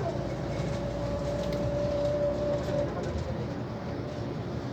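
Scania CL94UB bus under way: a low drivetrain rumble with the whine of its ZF automatic gearbox holding one steady pitch, fading out about three seconds in.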